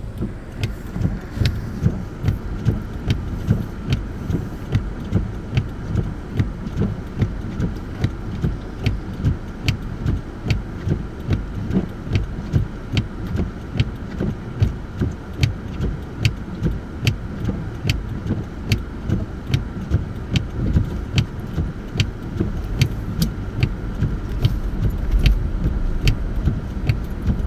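Car cabin noise while driving: a steady low rumble of engine and road, with a regular clicking about twice a second.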